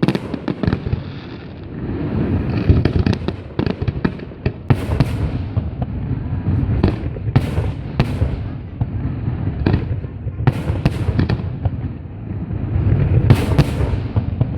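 Fireworks display: shells bursting in rapid clusters of sharp cracks and bangs over a continuous low rumble.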